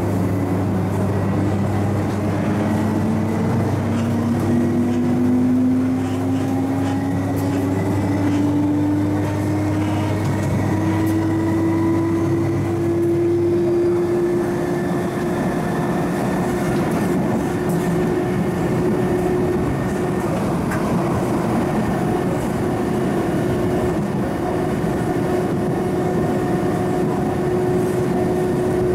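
Traction motor whine of an MTR East Rail MLR electric train under power, rising in pitch as the train accelerates and then holding steady, over steady running and rail noise. About halfway through, a low hum drops out, which marks a change in the traction sound.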